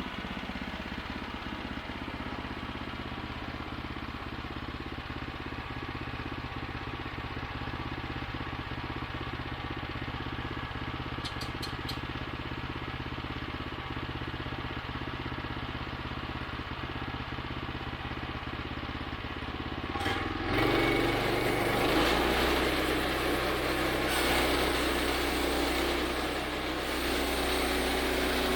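Gasoline engine of a portable bandsaw mill running steadily. About twenty seconds in it is suddenly louder, with pitch lines shifting and a dense hissing rush over the engine note, as the mill goes to work.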